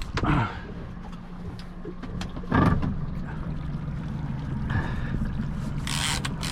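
Small boat's outboard motor running slowly with a steady low hum that grows stronger a little over halfway in, with a short loud knock or voice sound at that point and a brief hiss near the end.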